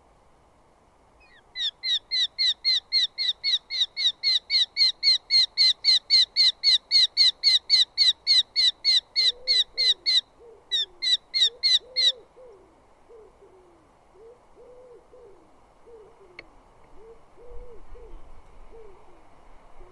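Eurasian hobby giving its rapid, even series of sharp high 'kew-kew-kew' calls, about four a second, breaking off briefly near the middle and stopping after about ten seconds. Under and after it, a fainter series of low, hooting coos from another bird.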